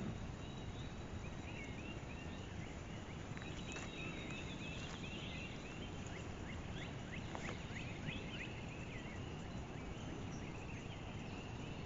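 Quiet outdoor ambience: songbirds chirping and calling in quick short notes throughout, over a steady low background hiss.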